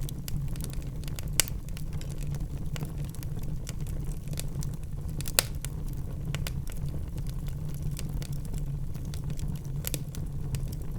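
Wood fire burning in a fireplace: a steady low rumble of flames with scattered sharp crackles from the logs, and two louder pops about a second and a half and five and a half seconds in.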